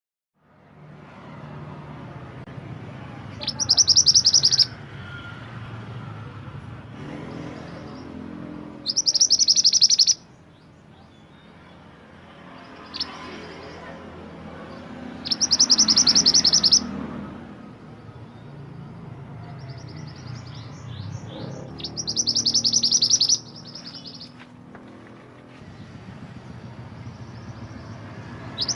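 Mantenan gunung songbird singing short, rapid, high trills, one about every six seconds and each lasting a little over a second, with a few scattered softer notes between them. A steady low rumble runs underneath.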